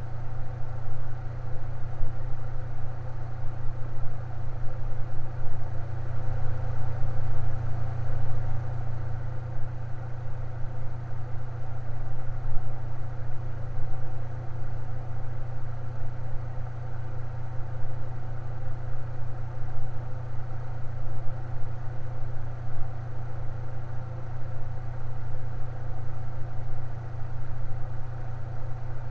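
Electric fan running steadily, a constant low hum with a faint airy whir above it.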